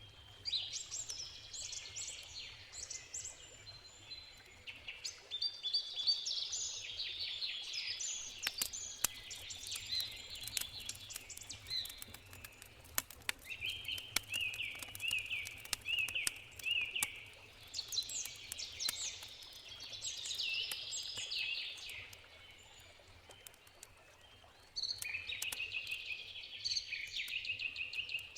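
Songbirds singing and chirping almost continuously, with sharp crackles and pops from a burning campfire scattered through, densest about eight to twelve seconds in, over a faint low background rumble.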